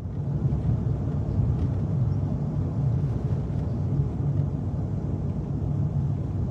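Steady low rumble of a vehicle, with no distinct events.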